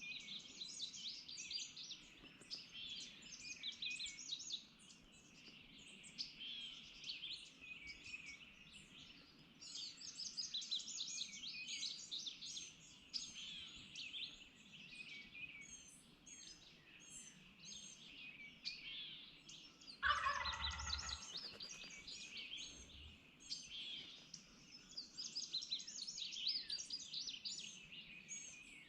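Songbirds singing all through, with a wild turkey gobbler gobbling once about twenty seconds in, a single rattling gobble that is the loudest sound.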